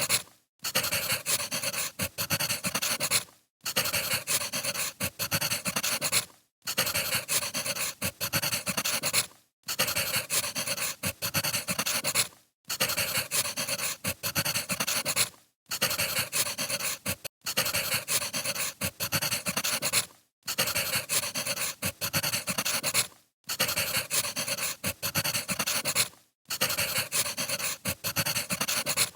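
Crackling of a burning wood fire: a steady hiss dense with small pops and snaps. It cuts out briefly about every three seconds.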